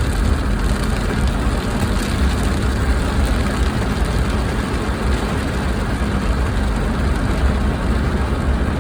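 Steady rumble and hiss of a car driving along the road, with no distinct knocks or changes.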